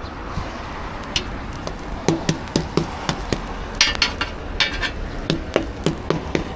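Two quick runs of sharp knocks, about four a second, of a kitchen utensil striking a hard work surface while food is being prepared. A couple of brief metallic scrapes come in the middle.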